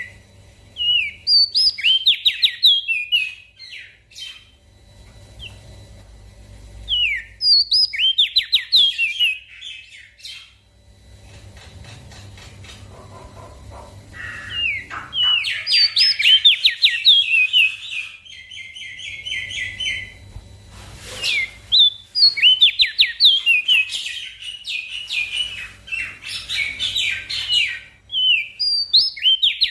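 Crested white-eye (opior jambul) singing: repeated bursts of fast, high-pitched chattering phrases separated by short pauses, the longest runs in the middle and near the end, over a faint low hum.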